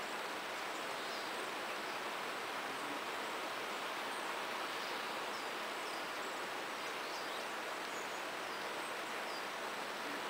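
Steady babbling of a small stream, with many short, thin, high-pitched willow tit calls scattered over it.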